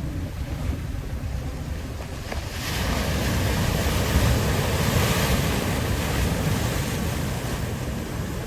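Ocean surf washing ashore, with wind buffeting the microphone in a low rumble. A wave's wash swells up about two and a half seconds in and slowly eases off.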